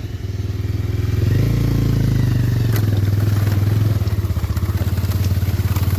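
Motorcycle engine running at low, steady revs, getting a little louder about a second in, with a few clicks and clatters over it.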